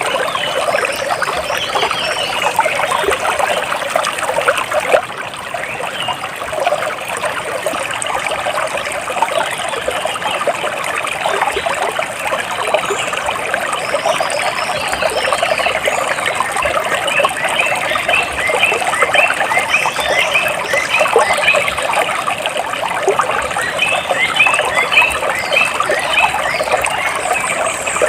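Water splashing and trickling steadily, with birds chirping in quick runs of short calls over it, busiest in the second half.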